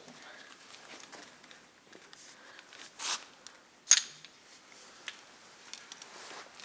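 Scattered handling noises of tools and parts being set up: small clicks, a short burst of scraping noise about three seconds in, then a single sharp metallic clink with a brief high ring.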